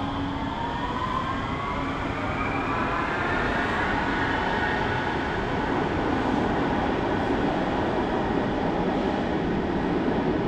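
Train on the move: a steady rumble of wheels on track, with a whine that rises in pitch over the first few seconds as it picks up speed, then stays level.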